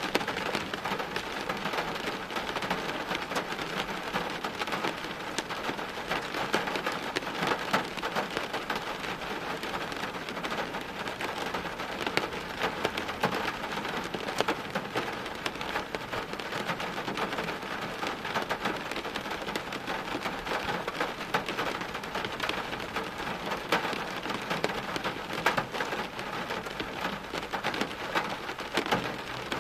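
Steady heavy rain falling on hard surfaces, an even hiss dense with the ticks of individual drops.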